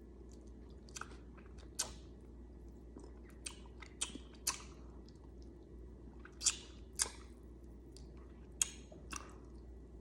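Someone chewing crunchy Cheetos Mexican street corn chips close to the microphone, with irregular crisp crunches every half second to second.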